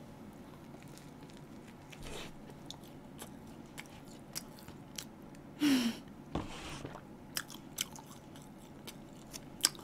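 Close-miked chewing of a toast sandwich with a fried pork cutlet filling: soft crunches and small wet clicks. About six seconds in there is a brief falling hum from the eater.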